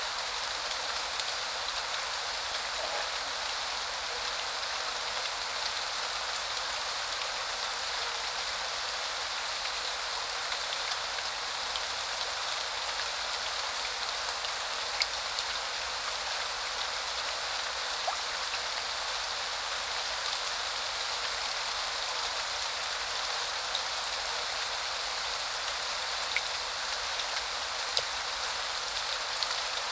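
Steady spring rain falling, an even hiss with a few sharper drops now and then.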